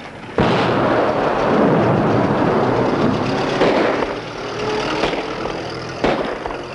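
An early-1900s open touring car's engine starts suddenly and runs loud and rough as the car speeds away. Several sharp cracks cut through it near the middle and near the end.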